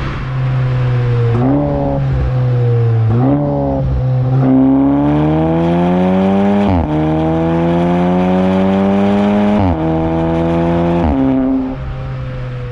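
Audi S3's turbocharged four-cylinder engine and exhaust, revved twice in quick blips, then pulling hard under acceleration with the pitch climbing and dropping sharply at two upshifts, before settling to a steady drone.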